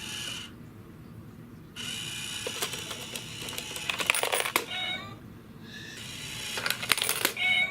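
Japanese cat coin bank working: its small motor whirs and clicks in two runs while the mechanical cat grabs a coin, with short meows in between.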